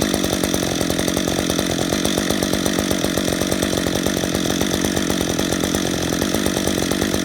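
Chainsaw with a 28-inch bar running steadily under load, cutting into a California black walnut stump.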